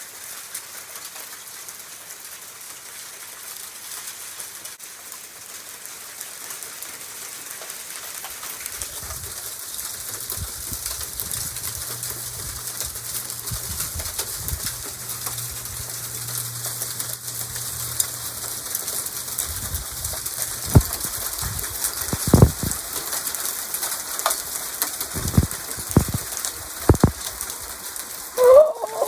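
Heavy rain and hail pelting down in a severe thunderstorm: a steady hiss full of small ticks, with wind gusts buffeting the microphone. Several louder knocks and thumps come in the second half.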